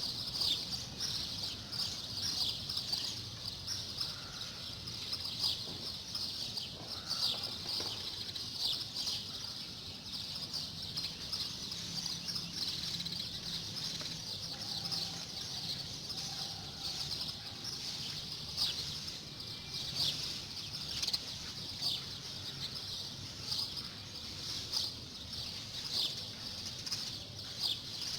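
A crowd of small caged birds chirping and twittering together, many short high notes overlapping without a break.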